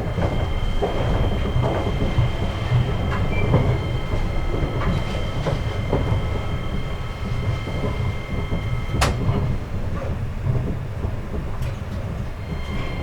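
Seibu 8500 series 'Leo Liner' train running, with the steady high whine of its Hitachi IGBT-VVVF inverter drive over a low running rumble. Scattered knocks pass under it, a sharp one about nine seconds in.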